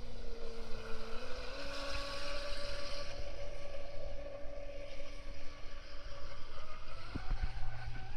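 Traxxas M41 RC speed boat's electric motor and propeller running across the water with a steady whine that steps up in pitch about a second in and then drifts slowly, the propeller cavitating.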